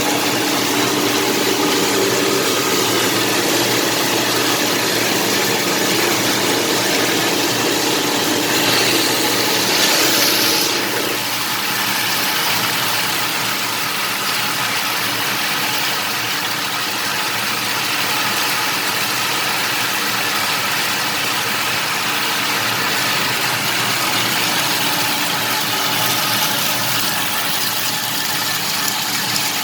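MAXIA MX-LP220 tamarind washing and peeling machine running steadily, its motor humming and its carborundum rollers rubbing away at the tamarind. About ten seconds in a louder hiss comes and goes, and the low hum then drops slightly.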